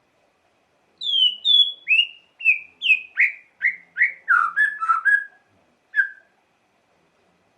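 White-rumped shama (murai batu) singing a quick run of about a dozen clear whistled notes, each sliding down in pitch, then one last note after a short pause.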